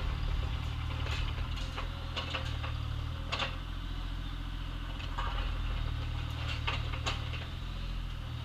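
Excavator engine running steadily, with short clanks and scrapes scattered through it from the bucket working in gravel and dirt.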